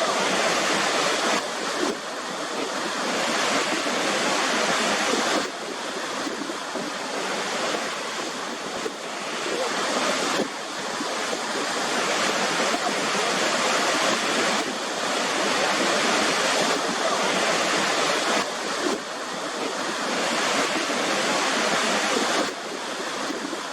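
Waterfall: a steady rush of falling water, whose loudness steps down or up abruptly several times, at about 1.5, 5.5, 10.5, 19 and 22.5 seconds in.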